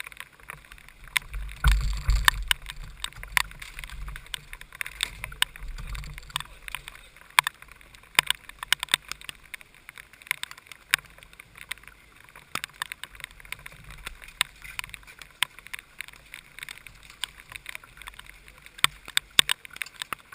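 Raindrops tapping on the onboard camera's housing in heavy rain, as irregular sharp ticks over a faint hiss. Swells of low rumble come through, strongest about two seconds in and again around six seconds.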